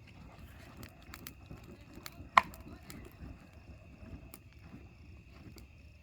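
Wood bonfire crackling, with scattered small pops and one sharp, loud pop about two and a half seconds in.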